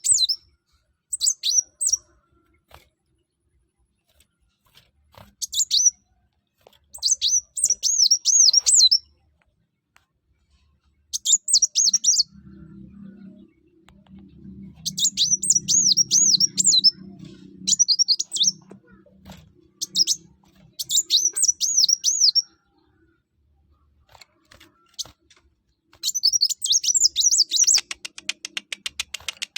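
Kolibri wulung (sunbird) singing in full voice: a series of high, fast, warbling song phrases of one to two seconds each, with short pauses between them.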